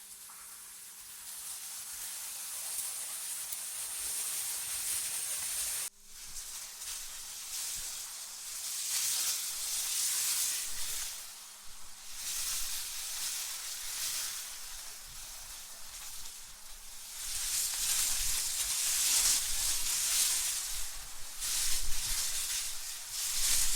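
Wind rushing in gusts, a high hissing noise that swells and fades every few seconds, with some low rumble in the stronger gusts near the end. The sound drops out sharply for an instant about six seconds in.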